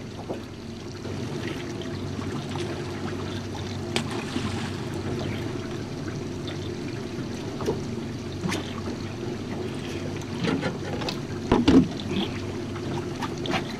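Small boat's outboard motor running at a steady drone, with water splashing and trickling against the hull and scattered knocks.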